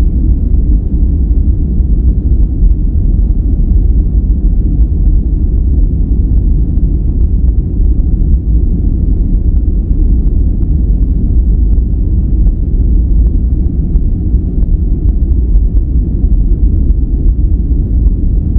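Steady synthetic relaxation noise, sold as white noise but deep and rumbling, with almost all its energy in the bass and no hiss on top. It runs evenly, without changes or breaks.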